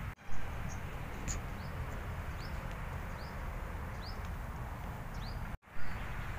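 A bird repeating a short, high, downward-sliding call note about once a second over steady low background noise. The sound cuts out for an instant just after the start and again near the end, each time followed by a brief loud bump.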